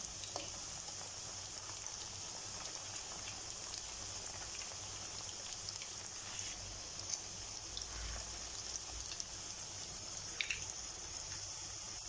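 Cypriot potato-and-mince köfte frying in hot oil in a pan: a steady sizzle, with scattered crackles and pops.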